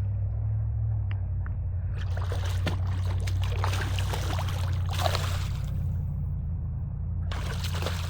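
Water splashing and trickling in uneven bursts over a steady low rumble.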